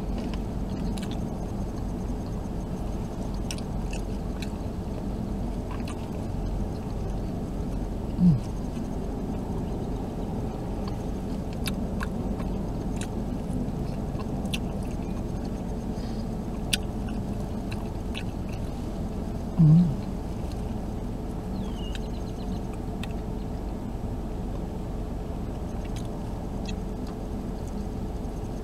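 Someone chewing a soft steamed bao bun, with scattered faint clicks, over a steady low hum inside a car cabin. Two brief closed-mouth hums break in, about a third of the way in and again about two-thirds in.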